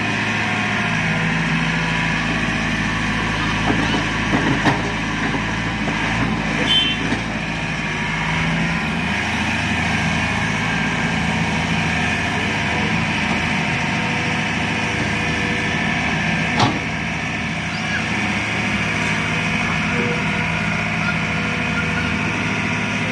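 Tractor diesel engine running steadily, with a few knocks about four to five seconds in and a single sharp knock about two-thirds of the way through.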